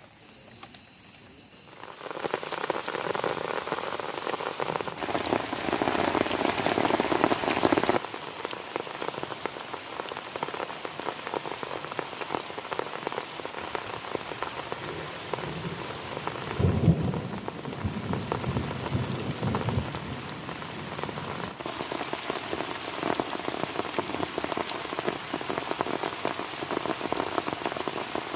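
Heavy rain falling on a plastic tarp shelter, a dense stream of drop impacts, heavier for a few seconds early on. About halfway through there is a brief low rumble of thunder.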